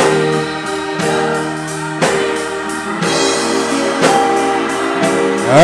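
Live gospel band playing between sung lines: sustained chords, changing about once a second, with a drum or cymbal stroke on each beat. A voice starts singing right at the end.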